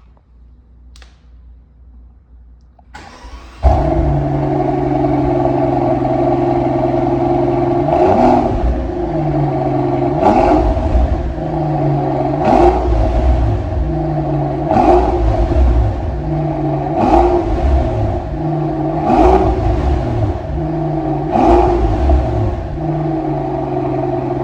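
Mercedes-Maybach S 680's twin-turbo V12 starting up about three and a half seconds in and settling to a steady idle, then blipped seven times at about two-second intervals, each rev rising and falling back to idle.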